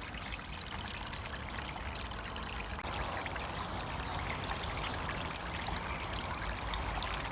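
Water from a small rebuilt garden pond waterfall pouring and splashing steadily into the pond. From about three seconds in, a run of short high chirps repeats roughly every 0.7 seconds.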